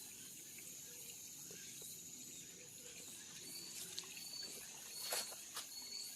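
Summer field insects singing steadily at a high pitch, with a few faint clicks about four to five and a half seconds in.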